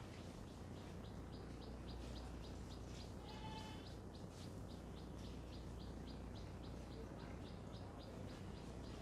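Birds chirping: short high chirps repeated about three times a second, with a brief louder trilled call about three and a half seconds in, over a low steady hum.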